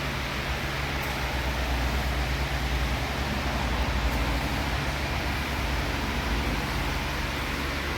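Exhaust of an LPG-fuelled Hyundai Grandeur HG, fitted with a custom exhaust line and a JSR variable valve exhaust, running steadily at idle with a deep, even hum.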